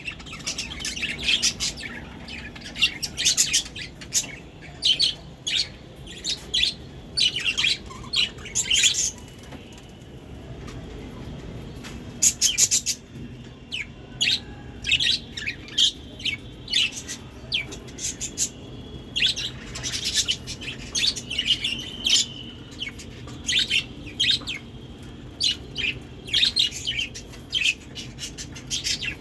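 Budgerigars chirping, many short sharp calls in quick succession, with a brief lull about ten seconds in.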